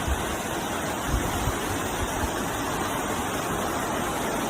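Steady rushing of water, as of fast-flowing floodwater or heavy rain, with a few low buffets of wind on the microphone.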